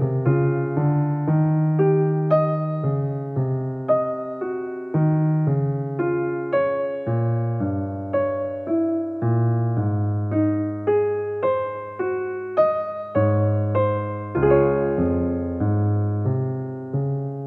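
Keyboard music: a piano-like instrument playing chords and a melody, with notes struck about twice a second over a bass line, ending on a held chord.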